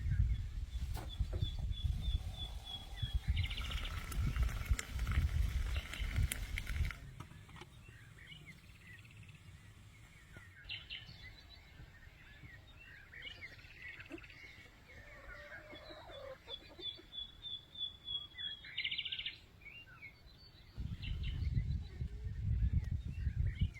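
Birds singing outdoors: a high trill of quick repeated notes comes twice, once about a second in and again after about sixteen seconds, with scattered chirps in between. A low rumble runs under the first seven seconds and comes back near the end.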